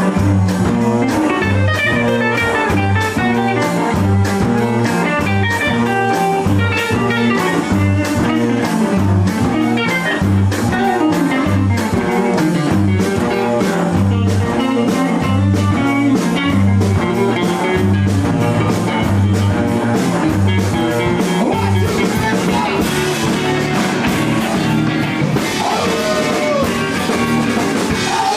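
A blues-rock band playing electric guitar, bass and drum kit over a steady, repeating bass line. Towards the end the cymbals get louder and notes bend in pitch.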